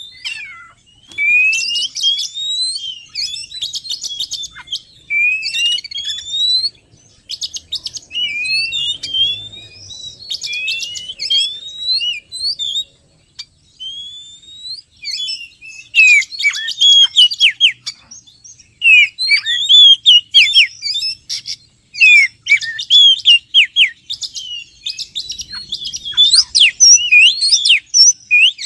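Oriental magpie-robin (kacer) song played as a trapping lure: a continuous run of varied whistled phrases, many of them rising notes. The phrases turn louder and choppier about halfway through.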